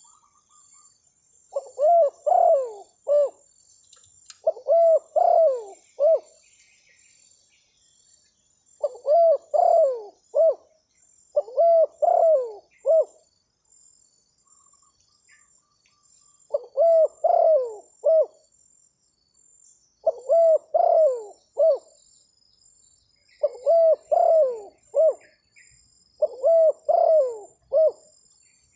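Spotted dove (terkukur) cooing: eight phrases of three or four low coos, each phrase about a second and a half long, repeated every few seconds.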